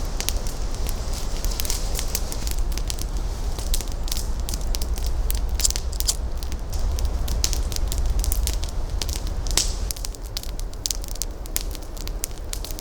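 Campfire burning, crackling with many irregular sharp pops over a steady low rumble.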